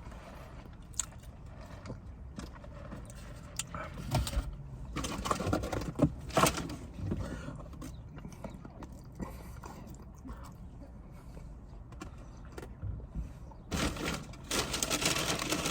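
Eating sounds close to the microphone: chewing, with scattered clicks and rustling of food packaging. The rustling is busiest about four to seven seconds in and again near the end.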